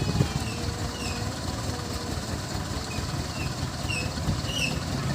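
Heavy truck's diesel engine running with a steady low rumble. A series of short high chirps comes in during the last two seconds.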